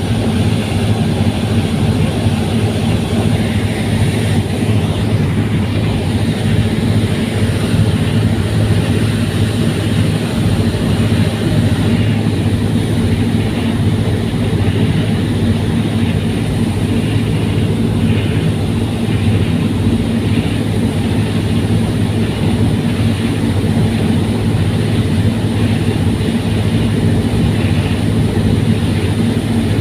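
Fast passenger ferry's engines running steadily under way, a constant deep hum with no change in pitch.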